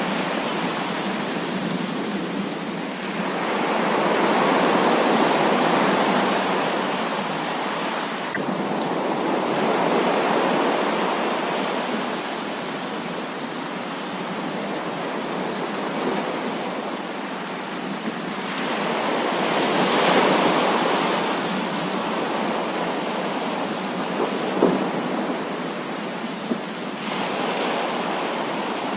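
Heavy rain falling steadily, with rolls of thunder that swell and fade several times. A couple of brief sharp taps come near the end.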